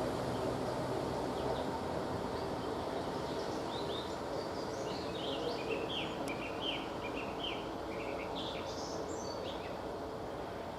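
A small bird chirping a quick series of short calls for several seconds, over a steady low background rumble.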